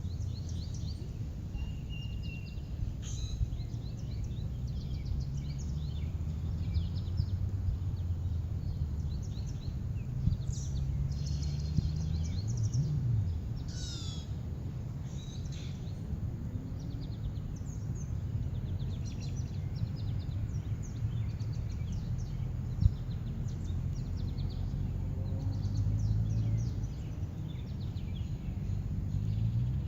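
Birds chirping and calling over a steady low rumble of outdoor background noise.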